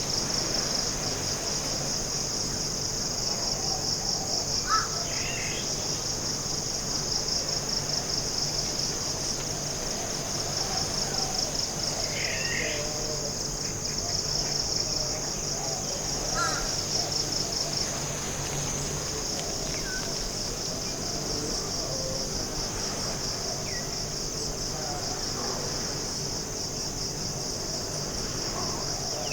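Forest insect chorus: a steady, high-pitched, fast-pulsing trill, with a few short bird chirps scattered through it.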